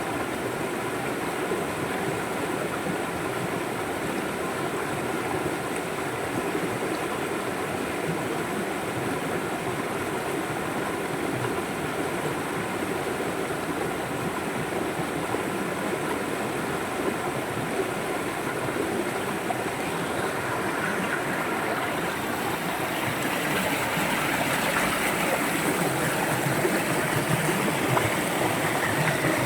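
River water flowing steadily over rocks, a continuous rushing and gurgling that grows a little louder and brighter from about two-thirds of the way in.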